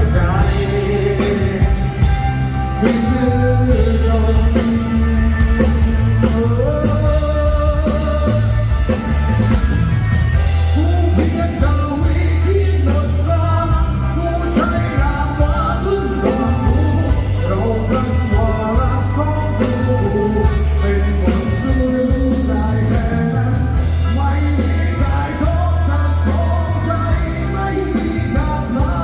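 Live band playing a song, a singer's voice with vibrato over steady bass and a drum kit.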